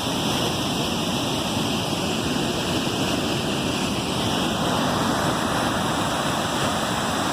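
Waterfalls rushing: a steady, unbroken noise of falling water.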